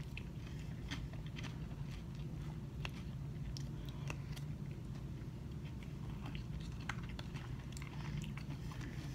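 Close-up mouth sounds of eating a spoonful of acai bowl: chewing and small wet clicks scattered throughout, and the plastic spoon going back into the plastic cup near the end, over a steady low hum.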